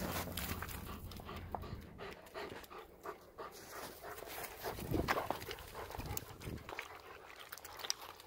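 Dog panting, with scattered short clicks and rustles and a louder thump about five seconds in.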